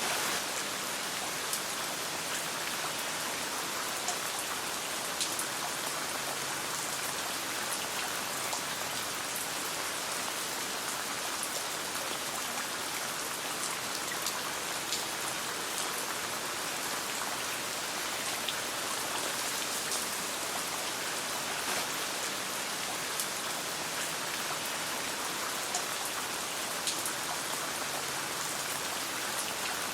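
Steady rain pattering on a tent, a dense even hiss with scattered sharp ticks of individual drops.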